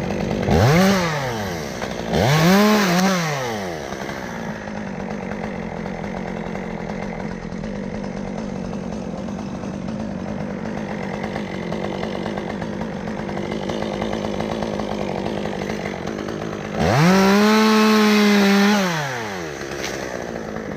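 Chainsaw idling, blipped up to high revs twice in quick succession near the start, then opened up and held at full throttle for about two seconds before dropping back to idle near the end.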